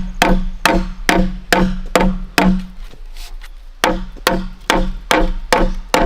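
Steady rhythmic chopping on wood with a blade, about two strikes a second, each hit giving a hollow ringing knock; the strokes stop briefly a little past halfway, then resume.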